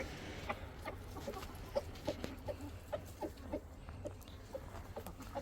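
Domestic chickens clucking: a run of short, soft clucks from several birds, a few each second.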